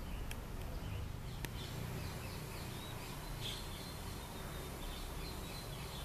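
Faint, scattered chirps of small garden birds, short high notes every second or so over a steady low background rumble.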